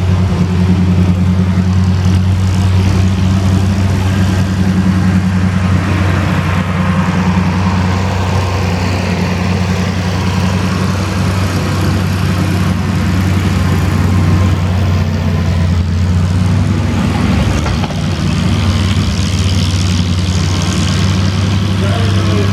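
Antique farm tractor engine running loudly at a steady speed, with a brief dip in loudness about three-quarters of the way through.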